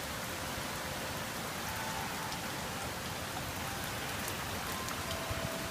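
Heavy rain pouring down in sheets: a dense, steady hiss. A few faint, held ringing tones sound over it.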